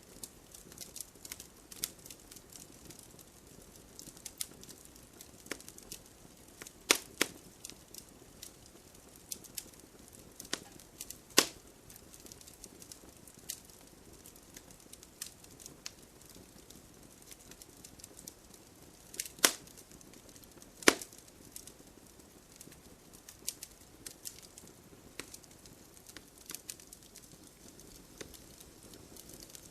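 Wood fire burning, with a soft steady hiss under irregular crackles and pops; a few sharp loud snaps stand out, the loudest about 7, 11, 19 and 21 seconds in.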